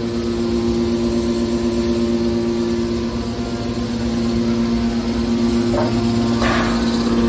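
Hydraulic scrap-metal baler running: its motor and pump give a steady, loud hum, with a brief harsher noise about six and a half seconds in.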